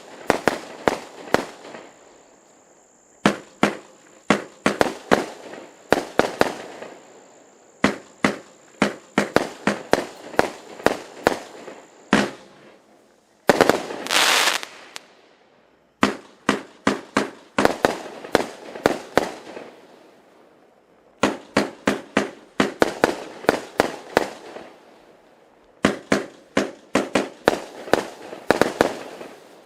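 Fireworks going off in repeated volleys, each a rapid string of sharp bangs lasting a few seconds, with short pauses between volleys. Near the middle comes about a second of loud hissing crackle.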